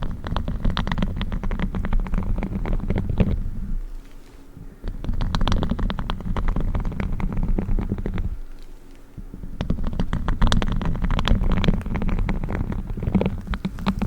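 Spiky gloves rubbing and scratching: a dense crackle over a low rumble, in three bouts of a few seconds each with short pauses between them.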